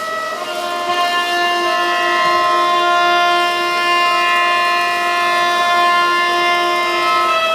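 Locomotive horn held in one long continuous blast, dropping to a lower note about half a second in and returning to the higher note near the end.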